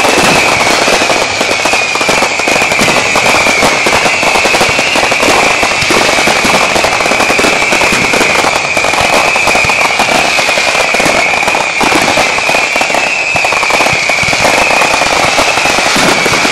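Fireworks going off in a loud, dense barrage of rapid crackling bangs, with a steady high whistle sounding throughout.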